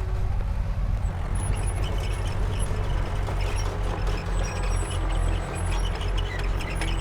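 Komatsu D31P bulldozer's diesel engine running steadily under load, with faint high squeaks and light metallic clicks over the low rumble.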